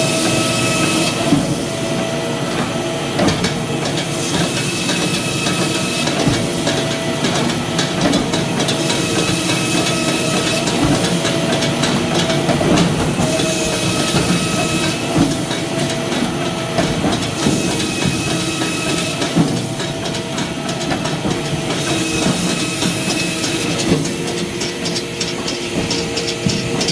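Firewood-making machinery running continuously, a steady mechanical hum with clatter and scattered knocks. The sound shifts in a repeating cycle every few seconds.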